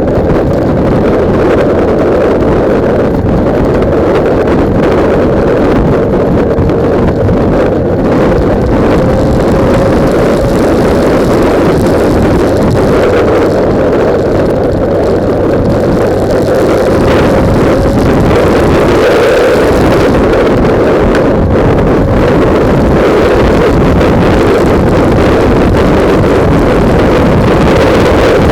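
Loud, steady wind noise buffeting the microphone of a camera mounted on a moving motorcycle, with a faint engine drone underneath that wavers slightly in pitch.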